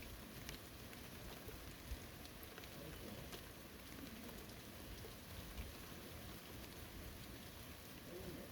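Steady light rain falling on a forest, with scattered individual drops ticking close by and a few soft low thumps of heavier drops.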